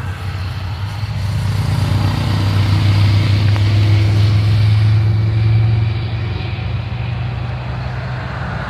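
A motor vehicle's engine passing by on a road, with a steady low hum that grows louder over the first couple of seconds, is loudest in the middle and then eases off a little.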